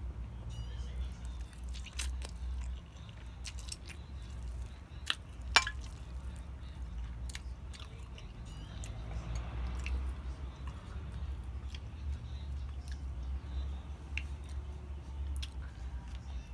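Close-miked chewing and wet mouth sounds of someone eating, with scattered sharp clicks, the loudest about five and a half seconds in, over a steady low hum.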